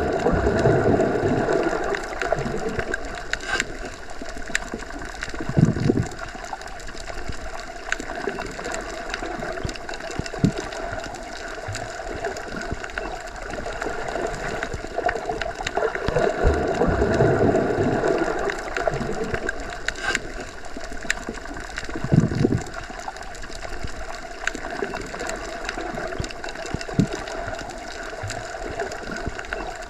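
Underwater ambience as heard submerged in a pool or lake: a steady muffled hum with scattered small clicks, low rumbling swells twice, and a couple of dull thumps.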